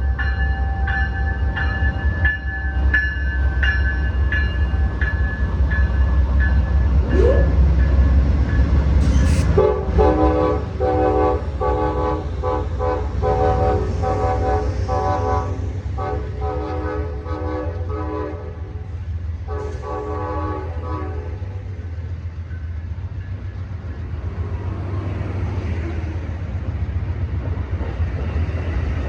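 Diesel locomotive's multi-chime air horn sounding a horn show: a string of short blasts, then from about ten seconds in a louder chord pulsed in rapid short toots for some ten seconds, over the steady heavy rumble of the train.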